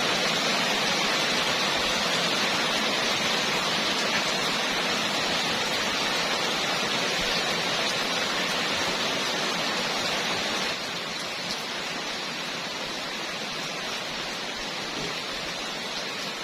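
Heavy rain pouring down in a steady hiss, dropping suddenly to a somewhat lower level about ten seconds in.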